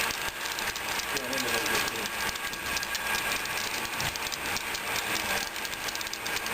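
Model trains running on the layout: a steady rolling hiss with rapid, fine clicking of wheels over the track.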